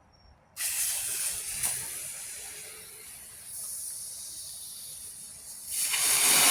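Homemade firework rocket's fuse catching with a sudden hiss, sputtering on steadily. About six seconds in, the charge ignites and the hiss grows much louder and fuller.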